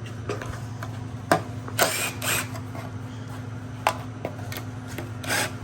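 A cordless power tool spins in a few short bursts, with sharp metallic clicks of tools and bolts in between, as an engine's oil pan is unbolted. A steady low hum runs underneath.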